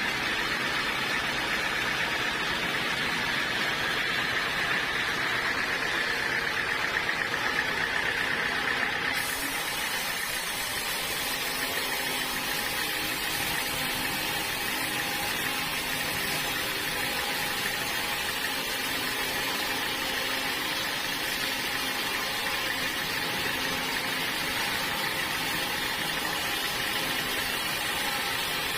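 Sawmill machinery running with a steady engine-like drone and a constant high whine in the first part. The high end changes abruptly about nine seconds in, then the running goes on steadily.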